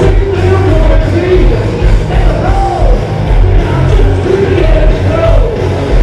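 A rock band playing loudly live, with distorted electric guitars, bass and drums, and a melody line that slides up and down in pitch.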